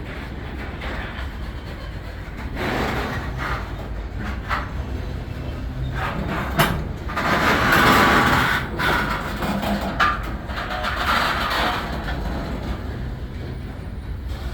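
Freight train diesel locomotives running with a steady low rumble, with louder rushing swells that come and go and a few sharp clicks.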